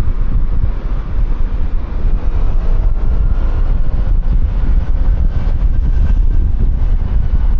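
Riding on a QJMotor Fortress 160 scooter, with a heavy, steady rumble of wind buffeting the helmet-mounted microphone and the scooter's engine and road noise underneath.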